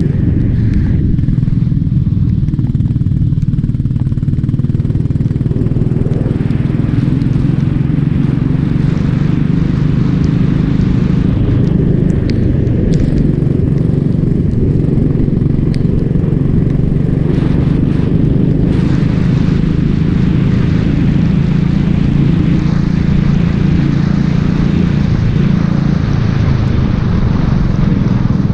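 Racing kart engine running hard and loud, its pitch holding fairly steady with small rises and dips.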